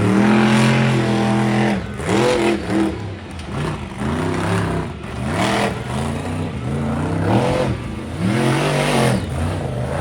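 Monster truck engine running at high revs, then revved up and down again and again, its pitch rising and falling about once a second.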